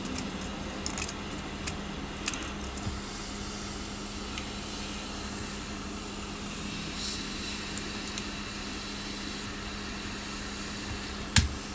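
Hot-air heat gun blowing steadily with a low hum, while a blade working the broken back glass makes sharp clicks and small cracks: several in the first few seconds and a louder one near the end.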